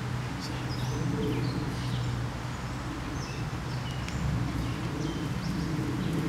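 Songbirds chirping in short, scattered calls over a steady low rumble of outdoor background noise.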